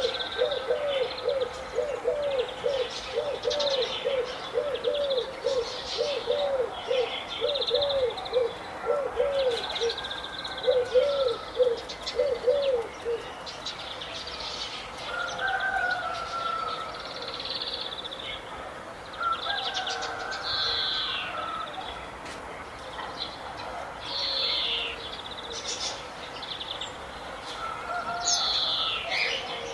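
Several wild birds calling at once: high chirps and trills keep going throughout. For the first dozen seconds a low call repeats about twice a second, then stops. Near the end comes one quick high call that falls in pitch.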